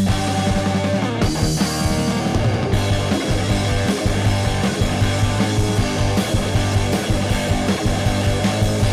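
A rock band playing live, loud and dense, with distorted electric guitar over a heavy low end.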